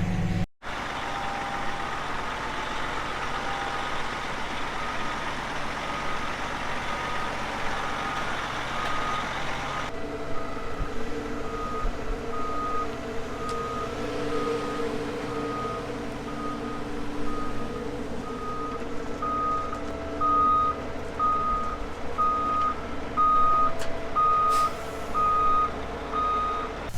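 Farm vehicle engine running; about ten seconds in, a vehicle backup alarm starts beeping at a steady rate of roughly one and a half beeps a second over the engine.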